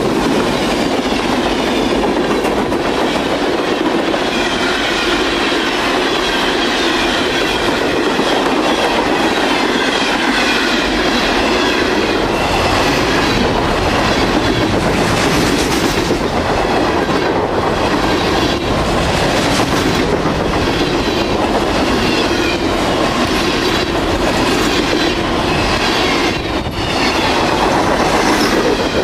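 Freight train cars rolling steadily past, with wheels clicking over the rail joints and some wheel squeal.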